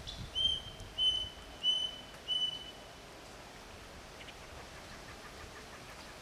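A bird whistling four clear, level notes in a row, about two-thirds of a second apart, over steady outdoor background noise.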